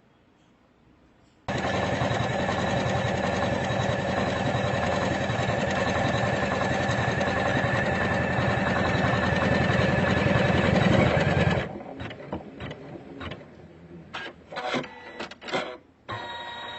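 A Usha Janome Memory Craft computerized embroidery machine starts abruptly after a short near-silence, stitches at a steady fast rate for about ten seconds, then stops. Scattered clicks and short whirs follow as it cuts a jump stitch.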